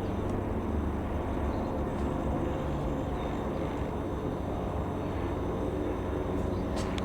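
Comco Ikarus C-42 FB80 ultralight's Rotax 912 four-cylinder piston engine running at a steady speed, a low even drone that holds its pitch.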